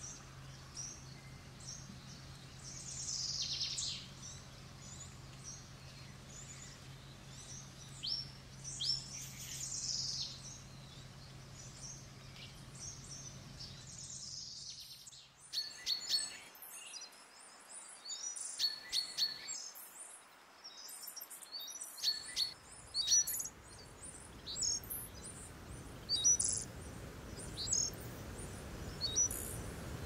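Birds calling and chirping, with a few longer hissy calls at first and then many short, sharp chirps in quick succession from about halfway. A faint low hum underlies the first half and stops about halfway through, and a low rushing noise builds near the end.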